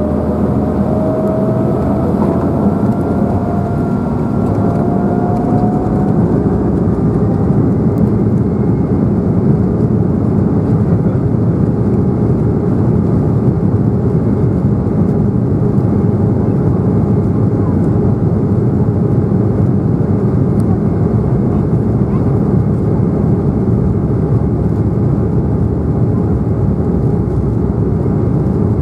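An Embraer 195 airliner's turbofan engines heard from inside the cabin: a loud, steady rumble with a whine that rises in pitch over the first several seconds, then holds steady, as the engines spool up.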